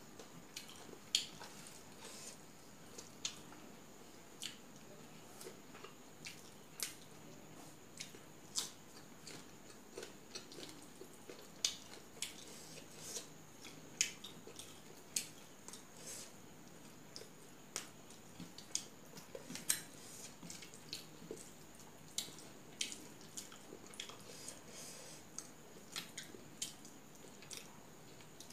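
Close-up eating sounds: chewing with wet mouth smacks and clicks as rice and fish curry are eaten by hand, in irregular sharp clicks about one to two a second over a faint steady high hiss.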